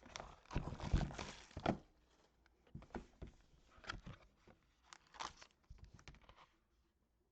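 Wrapping crinkled and torn as a box of trading cards is opened, densely for the first couple of seconds, then scattered rustles and light taps as the box and cards are handled.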